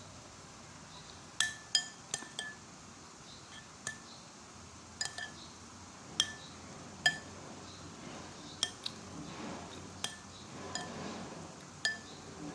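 Spoon clinking against a bowl while eating lugaw: about a dozen sharp, irregularly spaced clinks, each ringing briefly at the same pitch.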